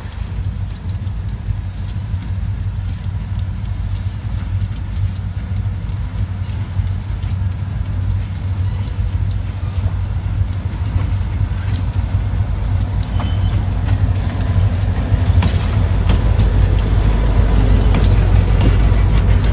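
Diesel locomotives of a slow train passing close by: a steady deep engine rumble, with sharp clicks from the wheels and rails growing louder and more frequent in the second half.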